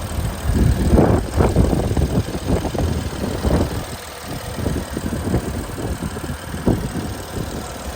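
2014 BMW X5 engine idling under the open hood, with wind buffeting the microphone in irregular gusts that are louder than the engine.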